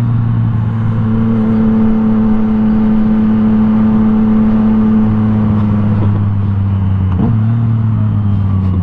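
Yamaha FZ-09 motorcycle engine held at high, steady revs through a wheelie. Its pitch drops a little about five seconds in and again about seven seconds in as the throttle comes back.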